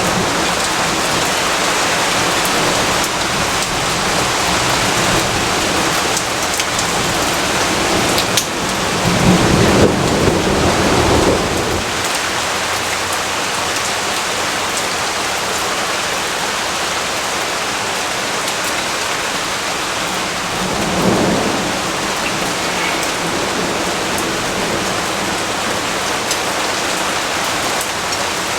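Steady rainfall with two rumbles of thunder: a longer roll about a third of the way in and a brief one about two-thirds of the way through.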